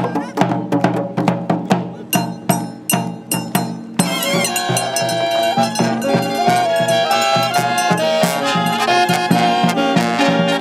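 Brass band playing live: for the first few seconds a run of evenly spaced drum and percussion hits, then about four seconds in the brass horns come in with a melody of held notes over the beat.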